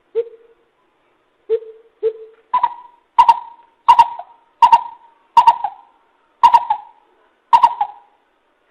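Coucal (bìm bịp) calling: a series of hollow, owl-like hoots, about one every 0.7 s. The first few notes are low; about two and a half seconds in the call steps up in pitch and gets louder for the rest of the series.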